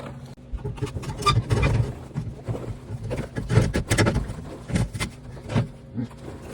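Handling noise: a run of irregular knocks, clunks and rattles over a steady low hum.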